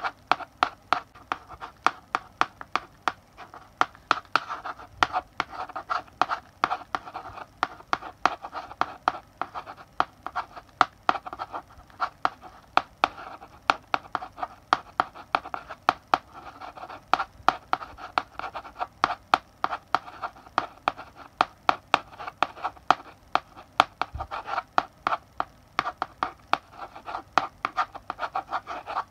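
Chalk writing on a blackboard: many sharp taps of the chalk tip striking the board, several a second, with short scratchy strokes between them.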